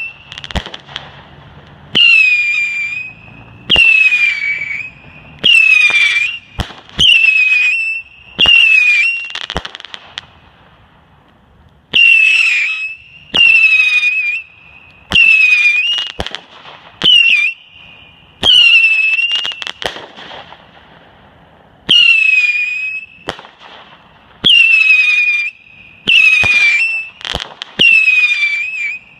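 A Shotgun brand Saturn Missiles battery fires a rapid string of whistling missiles, roughly one a second. Each goes off with a sharp pop and whistles for about a second, the whistle falling a little in pitch and then holding steady. The volley breaks off twice, briefly, about a third and two-thirds of the way through.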